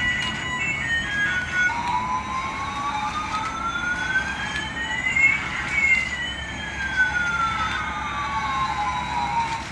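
Electronic siren sound effect: a single slow wail that rises for about four seconds and then falls back for about four more, after a few beeping melody notes at the start.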